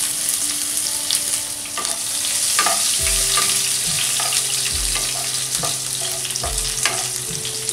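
Chopped green chillies and curry leaves sizzling in hot oil with mustard, fenugreek and cumin seeds in a nonstick kadhai, stirred with a wooden spatula. A steady sizzle is dotted with scattered crackles and pops.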